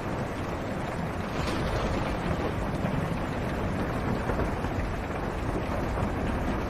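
Steady rain falling on a car's roof and windshield, heard from inside the car, over a constant low rumble.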